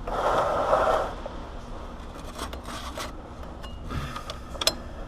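Rubbing and scraping for about a second, then scattered light clicks and knocks with one sharper click near the end: hands and a wrench working around a power steering line fitting.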